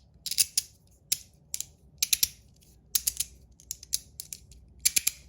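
3D-printed fidget slider being slid back and forth, its plates clicking sharply at the ends of travel in quick clusters of two or three, roughly one cluster a second.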